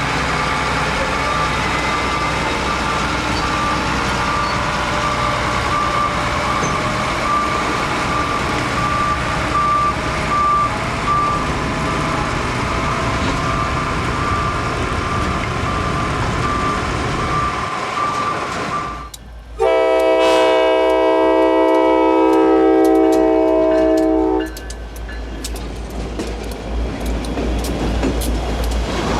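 A steady rumble with a repeating high electronic beep, on and off about once a second. After a sudden cut, a diesel locomotive's air horn sounds one long blast of several notes together, lasting about five seconds. Then rail cars rumble past with quick clicking from the wheels.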